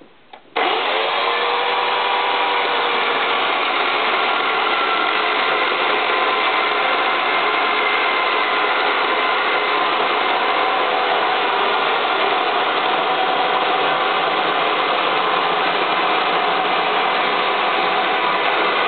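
Cheap chainsaw starting abruptly about half a second in, its pitch rising briefly as it comes up to speed, then running steadily at an even level.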